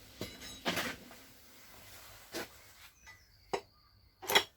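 Metal engine parts being handled during a teardown: a few scattered clinks and knocks, the loudest near the end.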